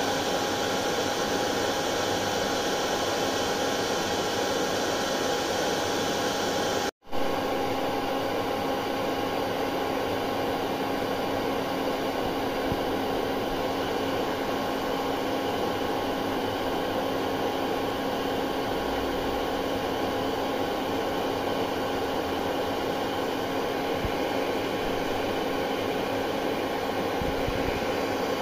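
Hair dryer running steadily: an even rushing blow of air with a faint steady hum in it. It cuts out for an instant about seven seconds in, then carries on unchanged.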